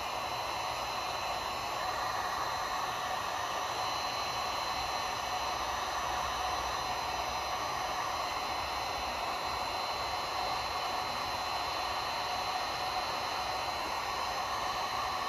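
Electric heat gun running steadily: a constant rush of blown air with a thin, high, steady whine, as it heats a vinyl decal to make it pliable.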